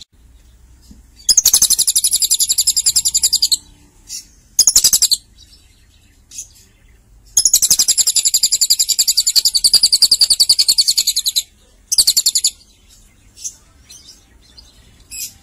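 Lovebird chattering in long, rapid, high-pitched pulsed trills: one of about two seconds, a short burst, then a longer one of about four seconds, and a brief burst near the end.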